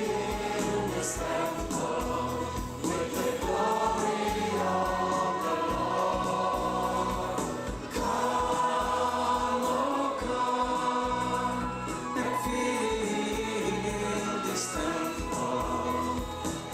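Choir singing a gospel worship song over instrumental accompaniment with a steady beat.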